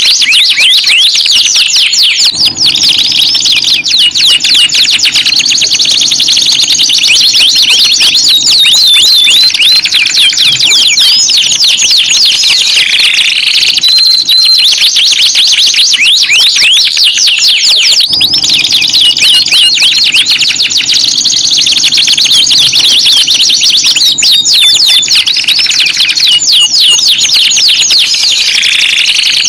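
Domestic canary song: continuous fast trills and rolls of rapid rising-and-falling notes, with a few held whistled notes between them, over a faint low hum.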